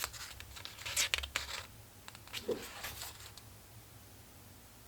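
Paper pages of a collage book being turned and handled: a few light rustles in the first half, the strongest about a second in.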